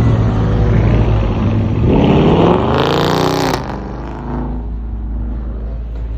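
A car engine revving. Over a steady low rumble, the engine note climbs in pitch for about a second and a half, then cuts off sharply about three and a half seconds in, after which the rumble carries on more quietly.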